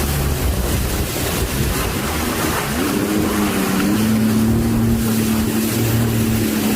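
Storm wind buffeting the microphone over rough water. About three seconds in, a steady droning tone comes in and holds.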